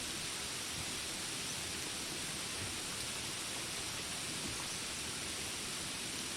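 Steady rain falling as an even, unbroken hiss, with no single drops or animal calls standing out.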